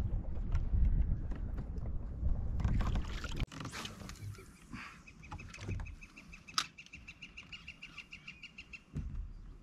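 Low rushing noise from the kayak cuts off abruptly about a third of the way in. A bird then calls in a quick, even series of short high notes lasting about four seconds.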